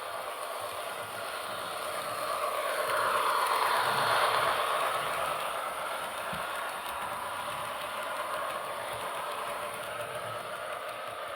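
HO-scale model train running on the track with a steady clattering rattle of wheels on rail, growing louder as it passes close by about four seconds in, then easing back.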